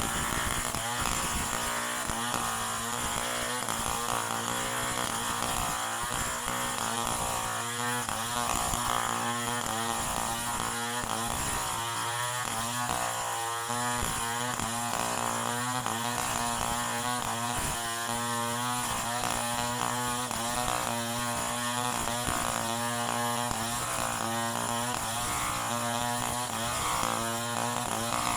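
Chainsaw running continuously, its engine pitch rising and falling throughout.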